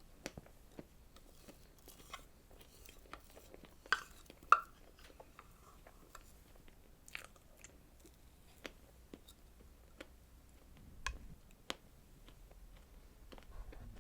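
Close-miked chewing and wet mouth clicks of a person eating a strawberry dessert, in many short, irregular sounds. A couple of louder, sharper bites come about four seconds in.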